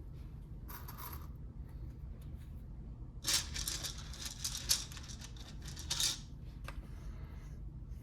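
Plastic Lego pieces clicking and rattling as they are handled and sorted, with a brief rustle about a second in and a dense flurry of clicks from about three to six seconds, over a low steady hum.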